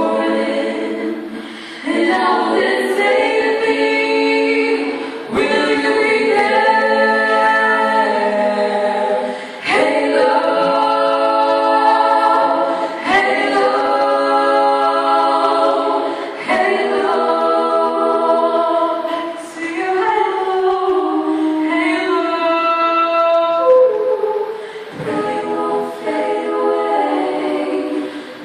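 A vocal group singing in close harmony without instruments, in phrases of a few seconds separated by brief breaks.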